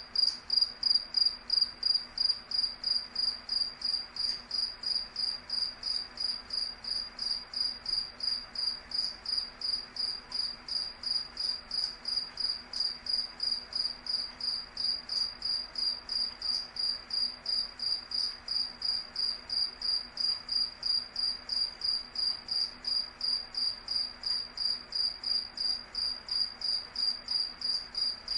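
Cricket chirping: an even, high-pitched chirp repeated about three times a second.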